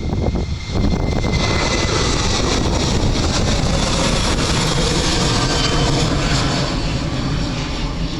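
Boeing 737-800 jet engines (CFM56-7B turbofans) at takeoff power as the airliner climbs out, a loud, steady rush of jet noise that swells about a second in, with a faint falling whine.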